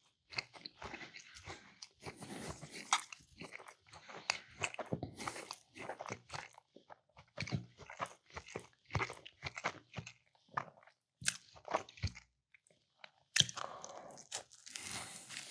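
Close-up chewing and biting of a meatball sub on a roll with a firm, flaky crust: irregular crunchy mouth clicks, pausing briefly about two thirds of the way through.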